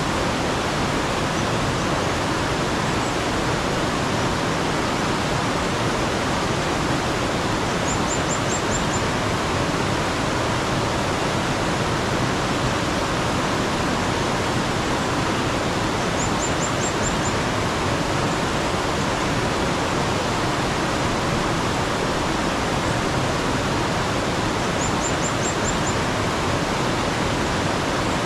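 Steady rush of running mountain water, with a small bird's brief run of about five quick, high chirps three times, roughly every eight seconds.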